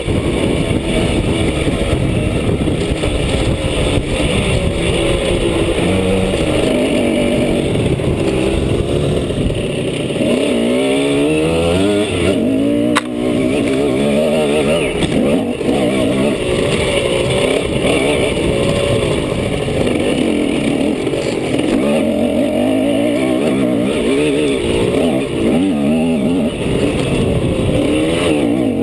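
Simson S51 Enduro's single-cylinder two-stroke engine under way, its pitch rising and falling again and again as the rider works the throttle and gears. There is one sharp click about halfway through.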